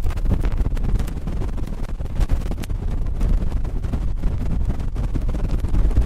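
Cotton swab scratching and rubbing directly on an ASMR microphone: continuous scraping with many small crackling clicks over a deep rumble.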